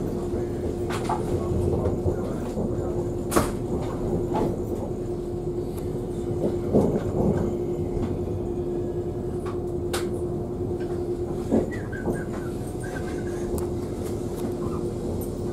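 Inside a moving passenger train carriage: a steady rumble of wheels and running gear with a constant hum, broken by a few sharp clicks and knocks from the carriage, the loudest about three and a half seconds in and around seven seconds.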